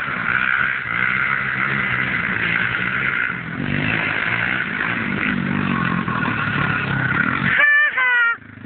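140cc pit bike engine running, its pitch shifting up and down with the throttle. Near the end, two short high clear tones sound, each falling slightly in pitch.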